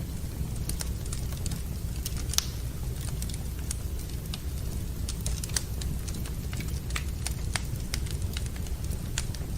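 Wood fire burning in a fireplace: irregular sharp crackles and pops over a steady low rumble, the loudest pops about two and a half and five and a half seconds in.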